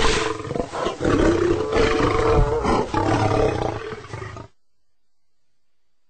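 Lion roaring in about three long surges, then cutting off suddenly about four and a half seconds in.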